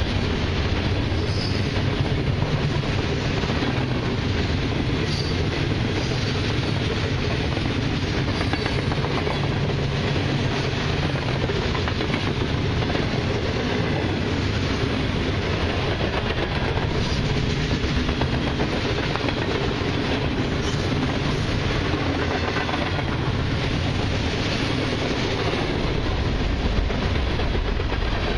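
Freight cars of a long mixed train, covered hoppers and boxcars, rolling past: a steady rumble of steel wheels on rail with clickety-clack over the rail joints.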